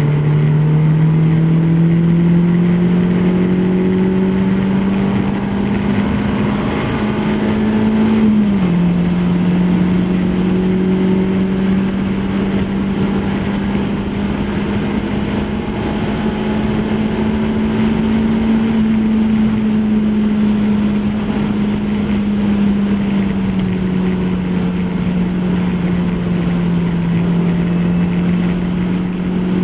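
MG F Trophy 160's 1.8-litre K-series four-cylinder engine pulling hard. Its note rises, drops sharply at an upshift about eight and a half seconds in, then climbs slowly and eases off a little past the twenty-second mark. Wind and road noise rush over the bonnet-mounted microphone throughout.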